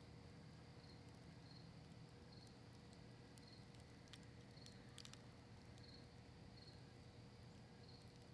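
Faint crackling of a cedar-leaf and maple-wood campfire, with a few sharp pops in the middle. A cricket chirps faintly about once a second.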